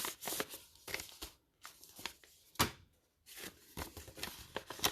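Crinkling and rustling of a foil booster pack and paper envelope being handled as the pack is slipped into the envelope, in short irregular bursts with a few crisp clicks and brief pauses.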